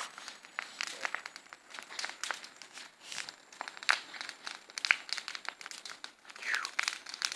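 Bonfire crackling: irregular snaps and pops of burning wood.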